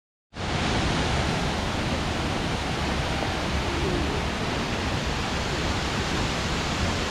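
Steady rushing roar of a tall waterfall, about 38 m high, with falling water over the whole range from deep rumble to hiss. It cuts in abruptly a moment in and then holds level.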